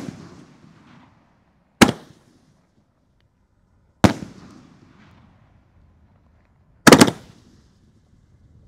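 Aerial firework shells bursting with sharp bangs, three of them about two to three seconds apart, the third a quick double crack. Each bang trails off in a short echo.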